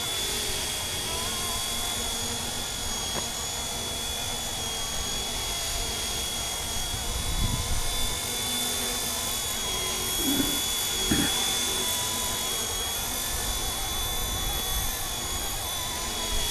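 Radio-controlled MD 500 scale model helicopter flying, its motor and rotors giving a steady high whine over a low rumble.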